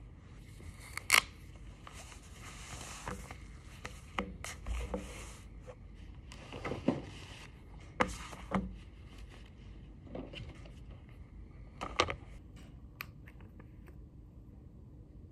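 Objects being handled at close range: scattered sharp clicks and knocks with short scraping and rustling. The loudest clicks fall about a second in, about eight seconds in and about twelve seconds in.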